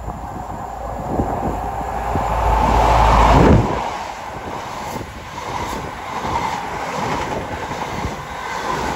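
A train passing close by. Its noise builds to a peak with a deep rumble about three and a half seconds in, then drops away.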